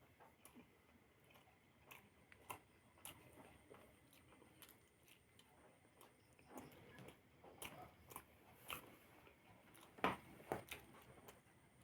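Close-up eating sounds of a person chewing and biting a meal of biryani and chicken: soft, irregular mouth clicks and smacks, with two louder ones about ten seconds in.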